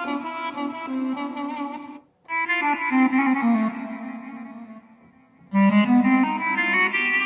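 Korg Pa600 arranger keyboard playing Armenian-style melodic phrases on sampled instrument voices. There are three separate phrases: the first breaks off about two seconds in, the second fades out near the five-second mark, and the next phrase starts straight after.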